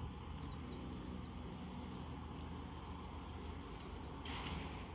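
A small songbird sings two short phrases of quick, high, descending chirps over a steady low outdoor rumble; a brief burst of hiss comes in near the end.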